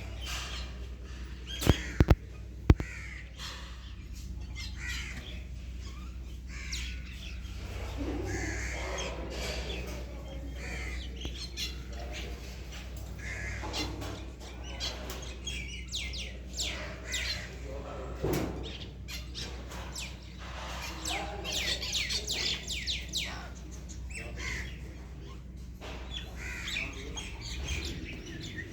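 Birds chirping and calling throughout, many short overlapping calls, over a steady low hum. A few sharp clicks about two seconds in.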